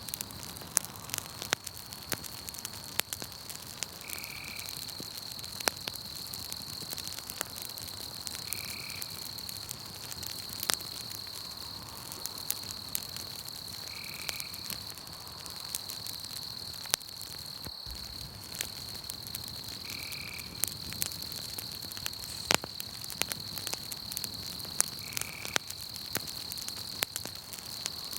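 Wood campfire crackling with irregular sharp pops, over a steady high insect trill. A short call repeats about every five seconds.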